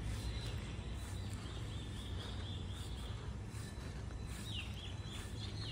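Birds chirping outdoors: a run of short repeated chirps in the middle, then several quick falling notes near the end, over a low steady rumble.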